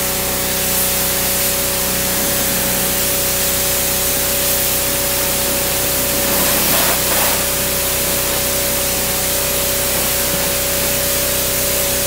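Steam pressure washer wand spraying continuously, rinsing degreaser off a car's engine bay: a steady, loud hiss of spray over a constant machine tone.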